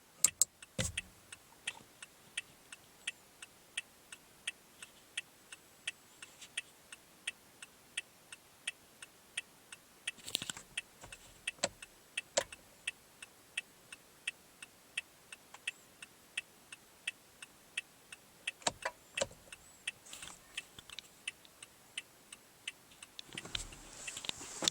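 Turn signal of a 2016 Toyota Corolla LE ticking: an even click-clack about two to three times a second, the classic relay-style blinker sound. A few louder clicks break in now and then.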